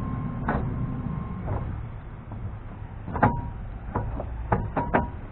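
Several sharp metallic knocks and clinks of steel parts and tools being handled: one about half a second in, a louder one with a brief ring after it a little past three seconds, then four quick ones near the end, over a low steady rumble.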